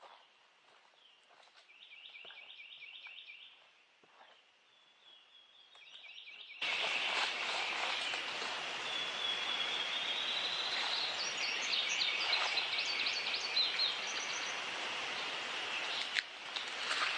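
Birds singing: short repeated chirped phrases, then, after a sudden jump in level about six and a half seconds in, a steady hiss with birds trilling over it.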